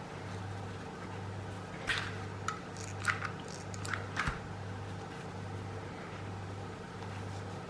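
A few small clicks and crinkles from hands working a hot glue gun, rope and a plastic bottle, over a steady low hum that swells and fades about once a second.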